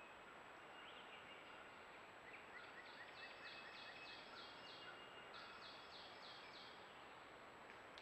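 Faint birdsong over a steady hiss: a bird repeats short high notes about four times a second in two runs, with a few lower whistled notes from other birds.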